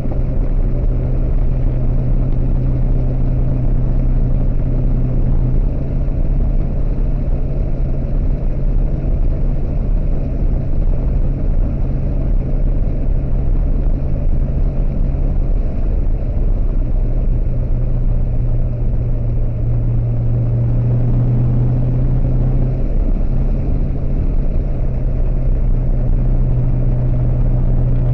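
1979 Pontiac Trans Am's Pontiac 400 V8 running steadily under way, a low drone over road noise. The drone grows stronger for a few seconds about two-thirds of the way through.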